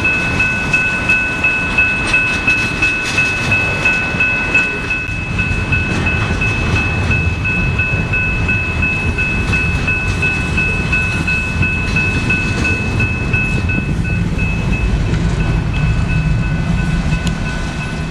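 Canadian Pacific freight train passing: a low rumble with the wheels clicking rhythmically over rail joints. Over it a grade-crossing bell rings steadily, stopping near the end.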